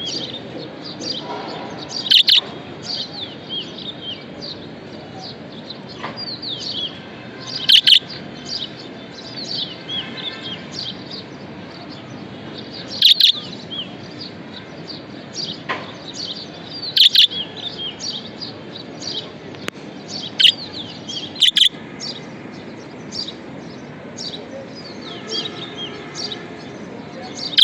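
Budgerigars chirping continuously in quick, gliding notes, cut through by about five loud, sharp calls a few seconds apart.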